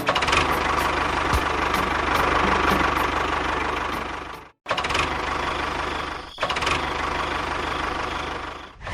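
Small engine running steadily with a regular ticking, about three ticks a second. It cuts out for an instant about halfway, then carries on.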